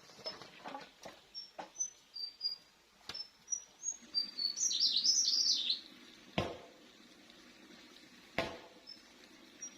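Small birds chirping in short high notes, with a busier burst of song about halfway through. Two sharp knocks about two seconds apart in the second half are the loudest sounds, with a few lighter taps in the first three seconds.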